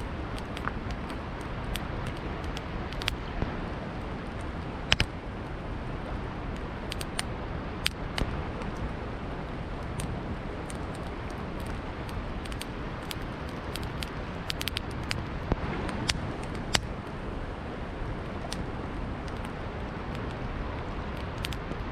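Wood campfire crackling, with sharp, irregular pops a few seconds apart over the steady rushing of a river.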